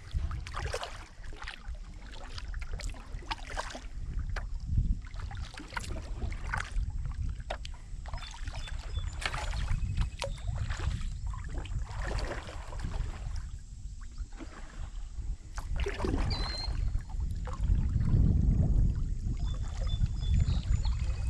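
Kayak paddle blades dipping and splashing in the river, a stroke roughly every second, over a steady low rumble of wind on the microphone that grows stronger near the end.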